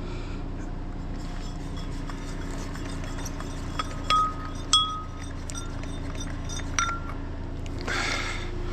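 A steady low engine hum, with a few short ringing metallic clinks about four seconds in, just under five seconds, and again near seven seconds.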